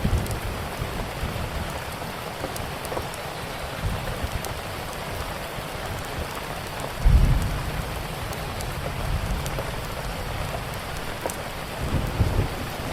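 Steady rain with scattered small crackles from a wood fire, and low thunder rumbling, loudest about seven seconds in and again near the end.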